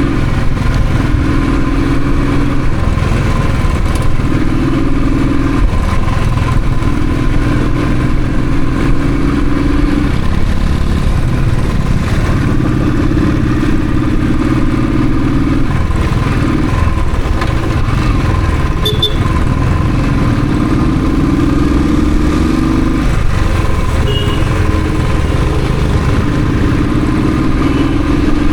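Royal Enfield Thunderbird's single-cylinder engine and exhaust running under a rider, with a dense low rumble. Its note slowly climbs and then drops back several times.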